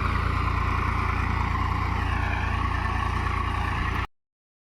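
Tractor engine running steadily with an even low rumble; the sound cuts off abruptly about four seconds in.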